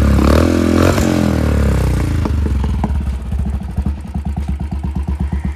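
Royal Enfield Classic 350's single-cylinder engine through a custom stainless-steel dual exhaust, blipped and dropping back over the first couple of seconds, then settling into a steady thumping idle. The engine is not yet fully warm, and the exhaust note is expected to grow fuller as it heats up.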